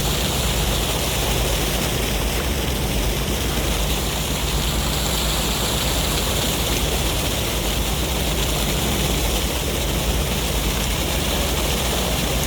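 Steady rush of sea waves and wind with a deep low rumble, an even wash of noise with no distinct breakers rising or falling.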